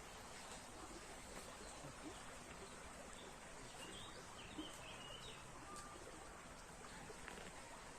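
Faint outdoor ambience, a steady soft hiss, with a few short bird chirps about halfway through.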